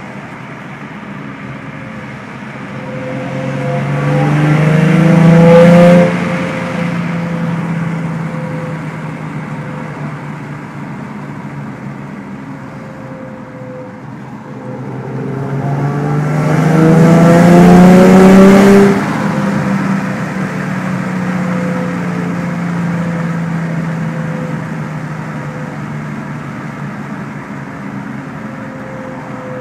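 Nissan 350Z's 3.5-litre V6, fitted with long-tube headers and a Fast Intentions exhaust, heard from inside the cabin pulling hard in third gear twice. Each time the engine note climbs for three to four seconds and then drops sharply as the throttle is lifted, falling back to a steady cruise.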